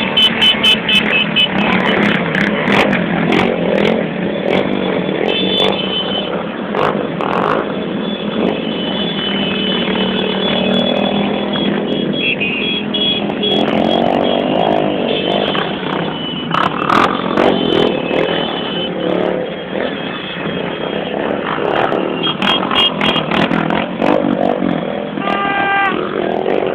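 Motorcycle engines running, with the engine pitch shifting and a few sharp clicks.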